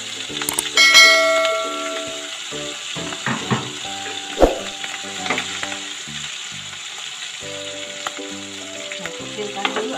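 Ground chili paste sizzling as it fries in hot oil in a wok, with a few sharp knocks from the mortar and wooden spatula against the pan. Background music plays throughout, and a ringing chime sounds about a second in.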